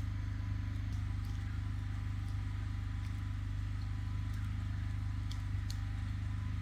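Portable generator engine running steadily, a constant low hum with a few faint clicks over it.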